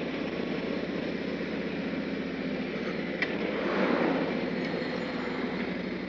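A Harley-Davidson Street Glide's Milwaukee-Eight V-twin engine running steadily at low road speed, heard from the saddle with wind and road noise. It swells louder for a moment about four seconds in.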